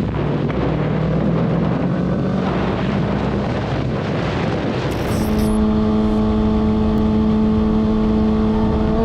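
Motorcycle riding at speed, engine note under heavy wind noise. About five seconds in the sound switches abruptly to a motorcycle engine holding a steady, clear pitch.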